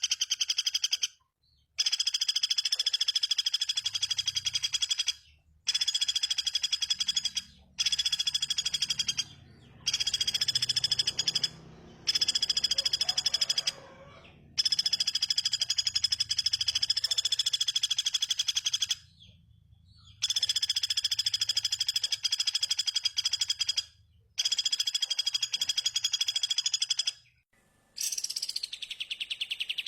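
A fast, buzzy trill held at one high pitch, repeated in phrases of a few seconds with short breaks between them. About two seconds before the end a different call with sweeping pitch takes over.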